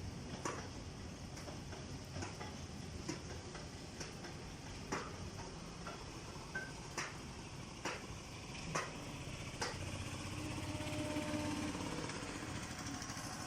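Freight wagons rolling past, their wheels clicking over a rail joint in an even rhythm about once a second, over a steady hiss of rain. About ten seconds in the clicks stop and a low drone grows louder.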